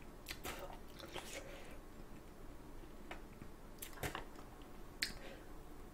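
Chewing a sauced chicken foot and stripping the bones in the mouth: soft, wet mouth sounds with a few sharp clicks.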